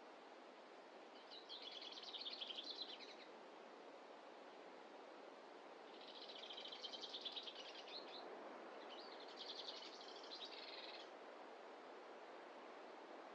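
A small songbird singing three quick trilled phrases, each about two seconds long, over a faint steady background hiss.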